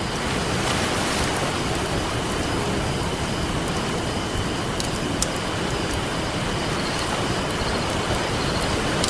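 Ocean surf washing on a beach in a steady rush that swells a little now and then, with a few sharp pops and crackles from a wood campfire. A faint steady high tone with short repeating chirps runs underneath.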